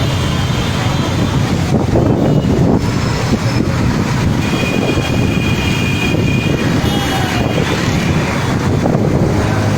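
Storm wind gusting hard and buffeting the microphone, a loud continuous rush.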